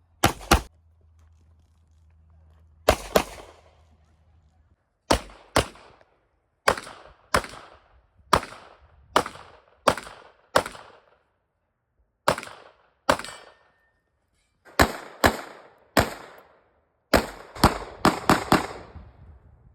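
Competition handgun shots fired in quick pairs and short rapid strings, about two dozen in all, each a sharp crack with a short echo tail. The pace quickens near the end into a fast burst of five or six shots.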